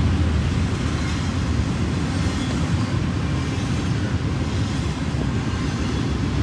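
Freight train rolling past on the tracks: a steady low rumble with no break.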